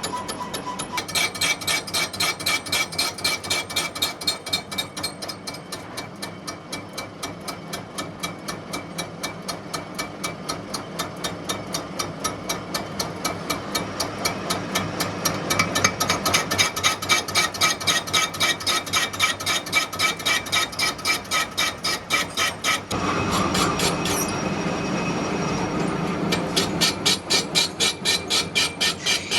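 Metalworking machinery knocking in a steady, even rhythm, about four strokes a second, over a faint steady ringing tone. A little past the middle, a rougher continuous grinding or rubbing noise swells for about three seconds before the knocking comes back.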